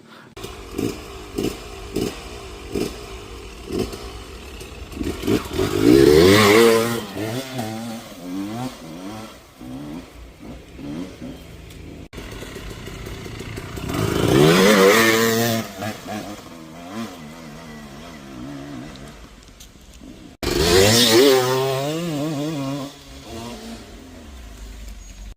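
Two-stroke dirt bike engine: a series of short throttle blips at first, then three loud revs under hard acceleration, each climbing in pitch and then falling away.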